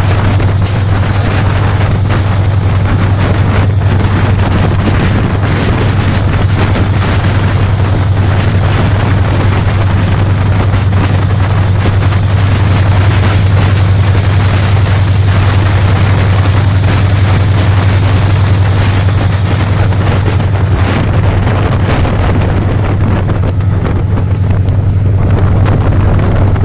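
A meter-gauge train hauled by a diesel-electric locomotive running steadily: a low, constant engine drone with wheel-and-rail noise and scattered clicks.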